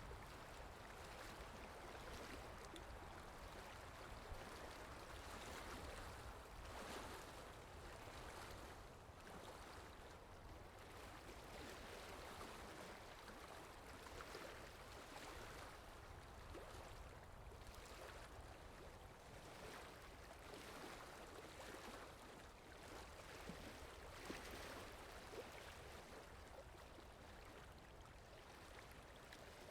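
Faint, steady running water of a stream.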